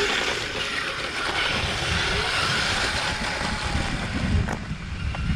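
Brushless Kyosho Blizzard RC tracked vehicle on a 3S battery driving over grass: a steady rush of track and motor noise with a faint whine that shifts in pitch.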